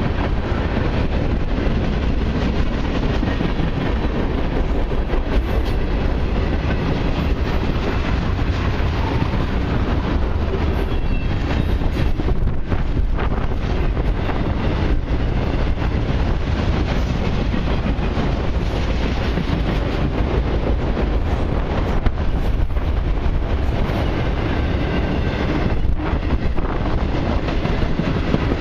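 Long mixed and autorack freight train rolling past: a steady rumble of steel wheels on rail with scattered clicks from the wheels passing over rail joints.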